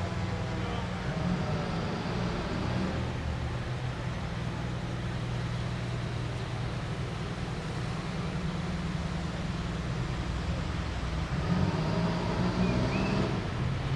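Diesel engine of a passing fire truck running, a steady low rumble, with a siren faintly winding down at the start.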